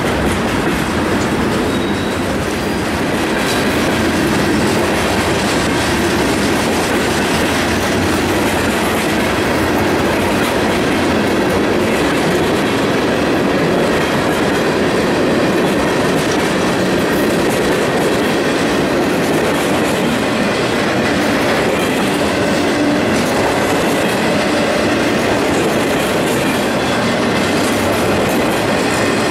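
Florida East Coast Railway mixed freight train of covered hoppers, tank cars and trailers on flatcars rolling steadily past, its wheels clacking on the rails.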